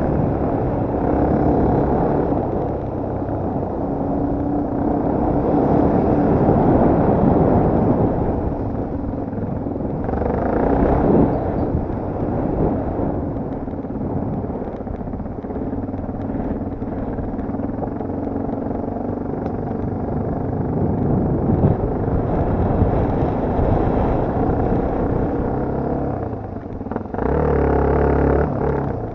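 Off-road motocross/enduro motorcycle engine running and revving under load, its pitch rising and falling.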